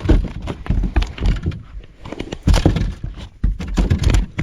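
A run of irregular knocks and thumps on the boat from handling.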